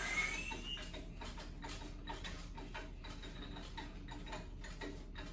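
A short rising whistle of air just after the SCBA cylinder's valve is opened into the charging line. Then a steady faint ticking, about three a second.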